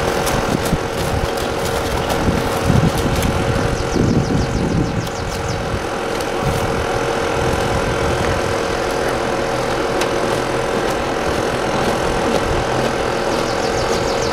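A steady engine hum, running evenly at one pitch throughout.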